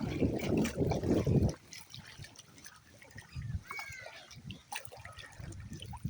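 Water splashing loudly for about a second and a half, then trickling and dribbling more quietly with scattered small splashes. A short high call that rises and falls comes about four seconds in.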